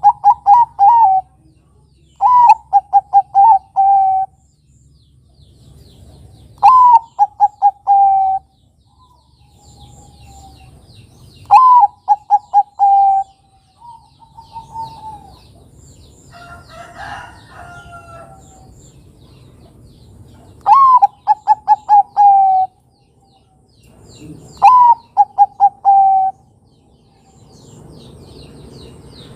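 A Bangkok-type perkutut (zebra dove) cooing: about six phrases a few seconds apart, each a rising first note followed by four or five short, clipped coos. A different bird call comes around the middle, with faint high chirps of small birds behind.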